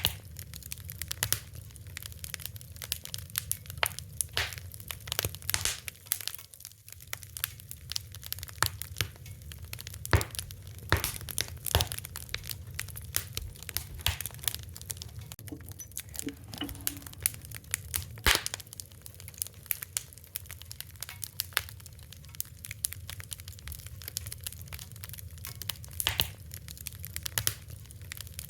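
Wood fire burning, with irregular crackles and sharp pops over a steady low rumble of the flames.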